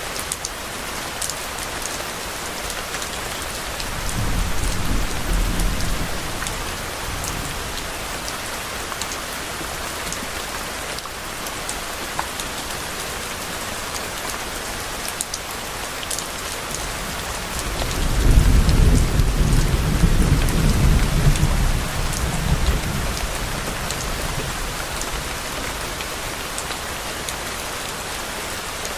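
Steady rain falling on a surface, with fine drop ticks, and two low rolls of distant thunder: a short one about four seconds in and a longer, louder one from about eighteen seconds in, fading out after a few seconds.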